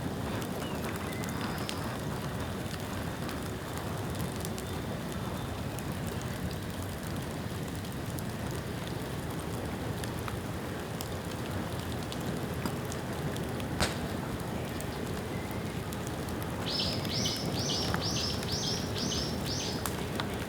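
Bamboo bonfire burning with a steady crackling hiss and scattered sharp pops, one louder pop about two-thirds of the way through. Near the end a bird calls a quick run of about eight high notes.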